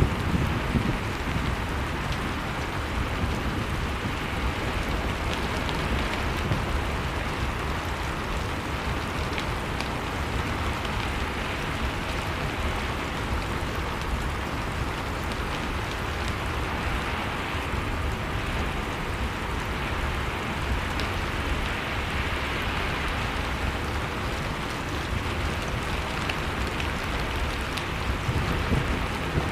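A wood fire crackling over a steady rushing storm wind with a low rumble: faint scattered crackles over an even noise.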